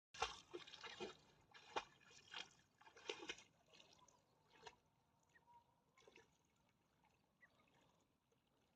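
Water splashing in irregular bursts for the first few seconds, then dying away to faint, scattered sounds.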